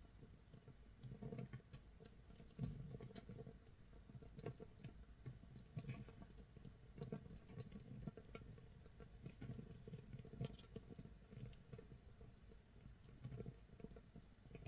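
Makgeolli starter mash (mitsul) fermenting in an earthenware crock, a day into fermentation: carbon-dioxide bubbles popping at the surface in a faint, irregular crackle of small pops and soft thuds, several a second, like light rain or crackling firewood.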